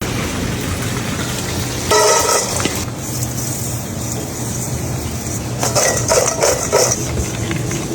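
Kitchen clatter of metal pans and utensils over a steady hum and frying sizzle, with louder bursts of clinking about two seconds in and again near the end.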